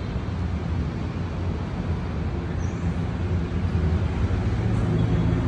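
A steady low rumble, growing a little louder near the end.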